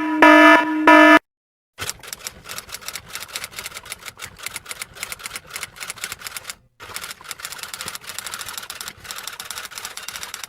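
Rapid, irregular typing clicks on keys that keep up for about eight seconds, with a brief pause midway. Before them, loud pitched horn-like beeps end about a second in, followed by a short silence.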